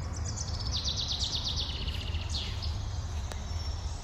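Songbirds singing outdoors: a fast trill of high repeated notes, then a single falling whistle, over a steady low hum.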